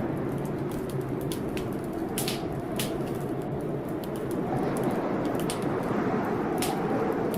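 Wood fire crackling, with irregular sharp pops and snaps, over a steady rush of storm rain.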